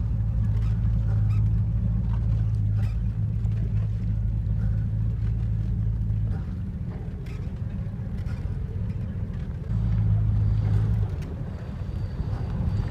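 Boat engine running with a steady low hum; it eases off about six seconds in and picks up again for a second or so near ten seconds.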